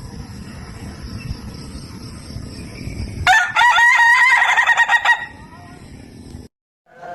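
Ayam ketawa (laughing chicken) rooster crowing a little over three seconds in: a loud crow broken into a rapid stuttering run of short notes, like laughter, lasting about two seconds. Before it, a low steady rumble in the background.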